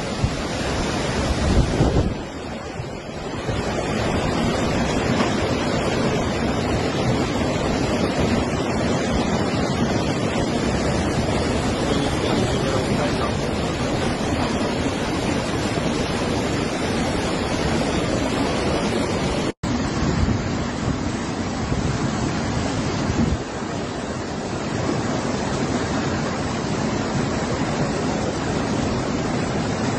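Rushing floodwater with wind buffeting the microphone: a steady, loud roar of water. It changes abruptly about two seconds in and cuts off for an instant about twenty seconds in, as one clip gives way to the next.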